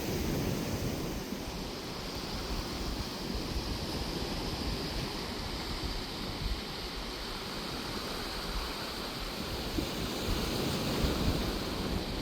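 Steady outdoor rushing noise with a faint, steady high hiss above it and no distinct events.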